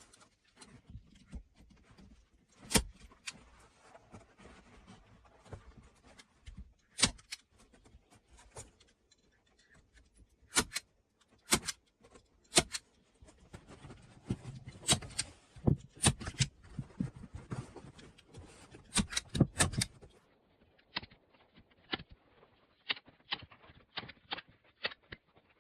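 Irregular sharp knocks and clicks of hand building work, with loud single strikes a second or more apart. About twenty seconds in they give way to a run of lighter, quicker taps.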